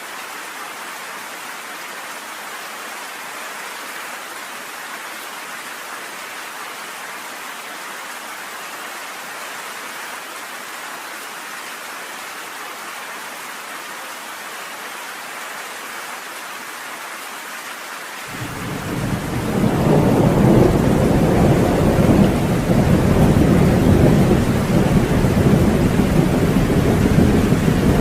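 Steady rain falling in an even hiss. About two-thirds of the way through, a loud, low roll of thunder sets in, swells over a couple of seconds and keeps rumbling.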